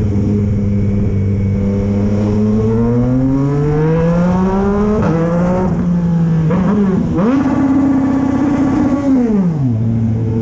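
Yamaha MT-09's three-cylinder engine pulling hard under throttle, its pitch climbing steadily for about five seconds. It drops briefly twice, about five and seven seconds in, as gears change, holds high, then falls back as the throttle closes near the end.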